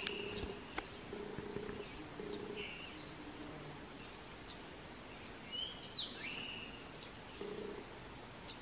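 Wild birds chirping: scattered short high chirps, the loudest a quick rising-then-falling call about six seconds in. Under them a low buzz comes and goes in short bursts.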